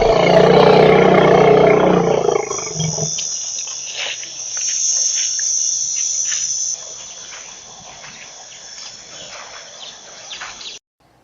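A large animal's loud, deep call with a roar-like pitch, lasting about three seconds, followed by a steady high chorus of insects with scattered clicks. The chorus cuts off abruptly near the end.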